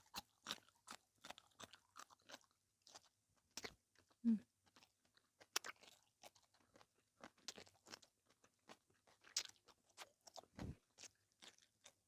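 Close-up crunching and chewing of a mouthful of kimchi, irregular crisp crunches about two a second. A short low mouth sound about four seconds in is the loudest moment.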